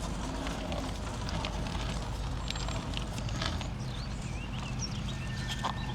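Bicycle rolling along a forest trail: a steady low rumble with scattered clicks and rattles. A bird chirps a quick run of short up-and-down notes about four seconds in.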